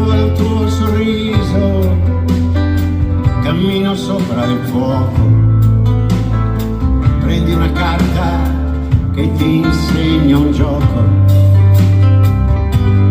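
Live band music: an instrumental passage with guitar over a strong, steady bass line between sung verses.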